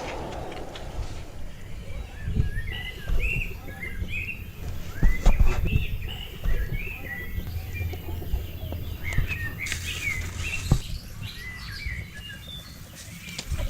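Small birds chirping and twittering in many quick, short calls, over a low rumble with a few knocks.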